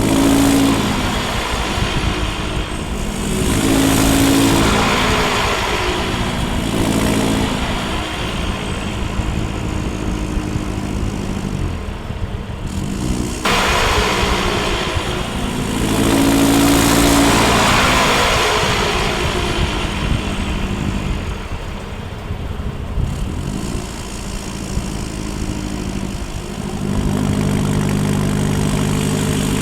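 Land Rover Defender 90's remapped 2.4 TDCi four-cylinder turbodiesel heard close at a straight-through exhaust, its engine speed rising and falling several times, then settling to a steady lower note near the end.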